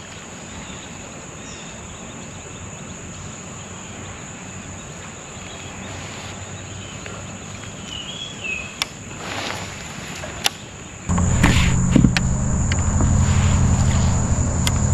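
A steady high insect chorus, crickets or similar, with a few light knocks and a brief bird chirp. About eleven seconds in, a loud, steady low rumble starts abruptly and covers the rest.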